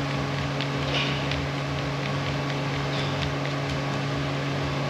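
Steady machine hum from a running motor, such as a shop fan or air conditioner, with a few faint light ticks.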